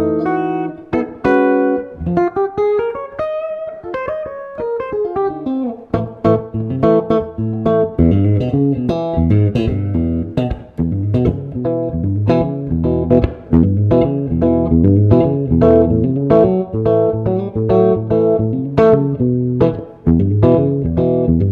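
Steinberger headless electric guitar played clean in a jazz style: a long sustained note bent smoothly up and back down in the first few seconds, then a steady run of picked notes and chords over low bass notes.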